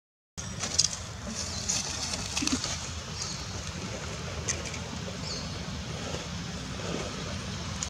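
Outdoor ambience: short, high bird chirps and whistles scattered over a steady low rumble.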